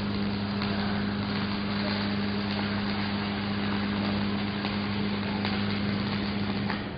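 Stick (shielded metal arc) welding: the arc crackles and sizzles steadily over a steady low hum, the crackle dropping away just before the end while the hum carries on.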